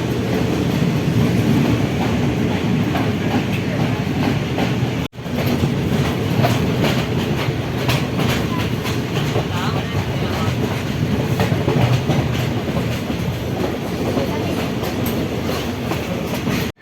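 A train running along the track, its wheels clicking over the rail joints in a steady clickety-clack over continuous running noise. There is a momentary break in the sound about five seconds in.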